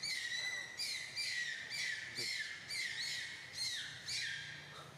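A bird calling over and over: about eight short, high calls, each dropping in pitch at its end, coming roughly every half second.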